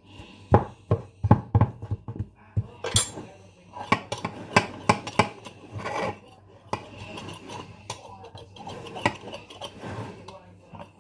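Kitchen utensils and metal tins knocking and clinking on a worktop in an irregular series of sharp taps and clatters, as pastry is cut and trimmed in pie tins.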